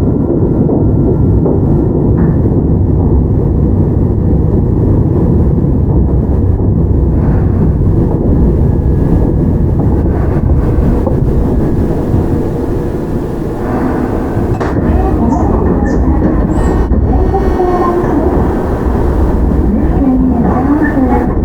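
Toyama Chihō Railway 17480-series field-chopper electric train (ex-Tokyu 8090 series) heard from inside the car while running, a steady rumble of wheels on rail and traction motors. The rumble eases slightly about thirteen seconds in, then picks up again.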